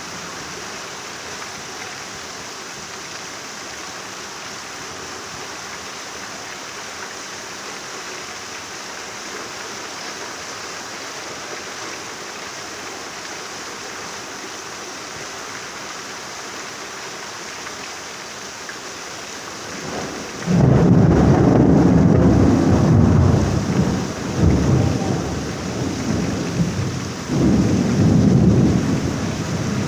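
Steady rain falling. About two-thirds of the way in, a loud rumble of thunder breaks in suddenly, swells again twice, and eases off near the end.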